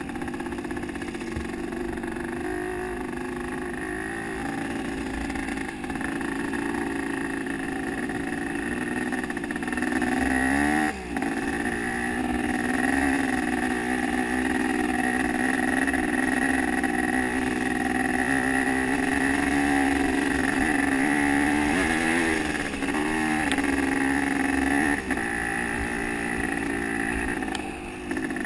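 Motocross bike engine running hard, its pitch rising and falling with the throttle. The sound drops off sharply twice, about a third of the way in and again near the end.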